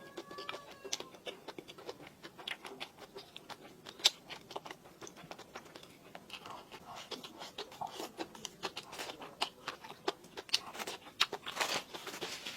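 A person chewing and smacking food: a steady run of quick wet clicks and small crunches, with one sharper click about four seconds in.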